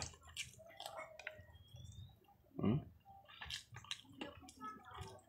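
Close-up wet chewing and lip-smacking of a person eating chicken and rice by hand, as small scattered clicks, with a short voice sound about two and a half seconds in.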